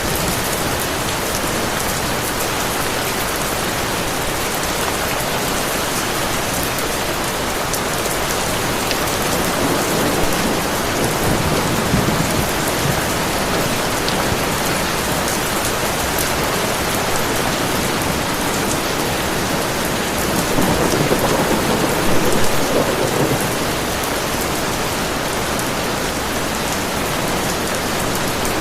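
Heavy rain falling steadily, with two swelling rolls of thunder, one about ten seconds in and another about twenty seconds in.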